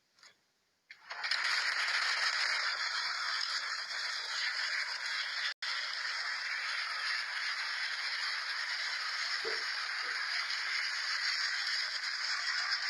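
Brick rattling and clattering inside a running top-loading washing machine, a dense steady racket that starts about a second in, with one very brief cut near the middle.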